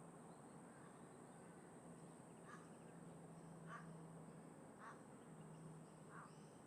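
A crow cawing four times, about a second apart, faint over a low steady background hum.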